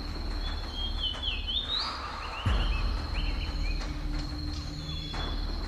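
Rainforest ambience: a steady high-pitched insect trill, with bird calls gliding up and down in pitch through the first half, over a low steady hum. A sudden low thump comes about halfway through.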